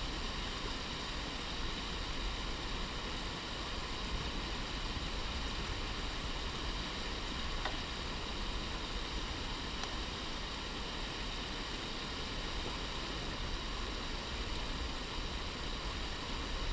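Steady hissing noise with a low rumble underneath, unchanging throughout and with no distinct events.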